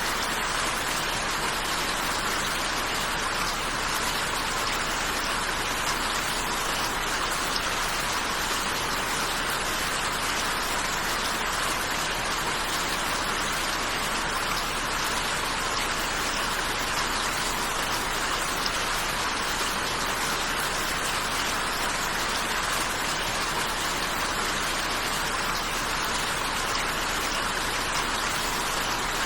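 Steady rain falling, an even hiss of raindrops with no change in intensity.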